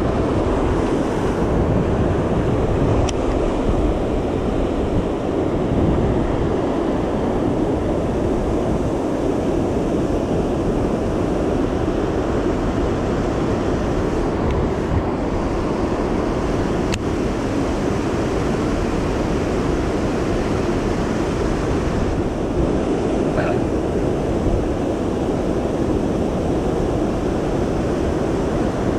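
Steady rushing of river water pouring over a low water dam, with wind buffeting the microphone.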